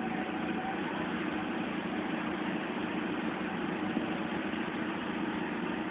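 Engine idling steadily, an even, unchanging drone.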